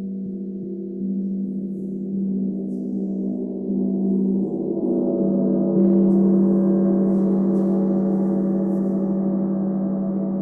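A meditation gong rings with a deep, sustained hum. It swells louder in several stages as it is played again, and a shimmer of higher overtones builds about six seconds in.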